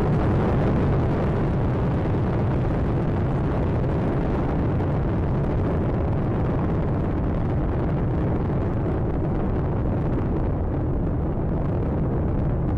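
Space Shuttle Atlantis's solid rocket boosters and three main engines firing during ascent: a steady, dense rumble, heaviest in the low end, whose upper range thins slightly near the end as the vehicle climbs away.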